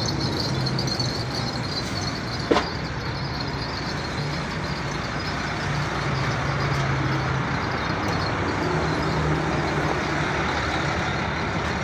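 Tractor engine running steadily, its low note shifting slightly, with one sharp clank about two and a half seconds in.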